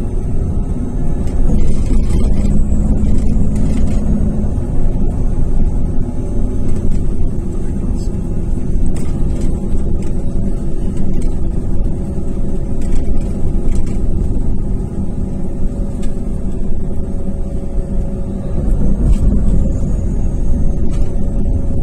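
Iveco Cursor 8 (F2B) Euro 4 six-cylinder diesel of an Irisbus Crossway 12M coach running under way, with a steady engine note heard from on board.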